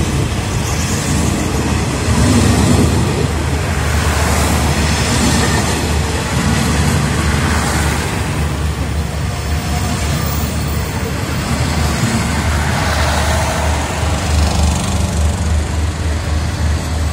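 State Railway of Thailand passenger coaches rolling past close by, with a steady rumble of steel wheels on the rails.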